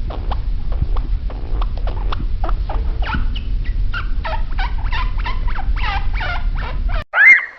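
An animal giving a rapid run of short clicks and chirps that turn into repeated squeaky calls, two or three a second, over a low rumble; it cuts off abruptly near the end, and a single loud rising-and-falling whistled call follows.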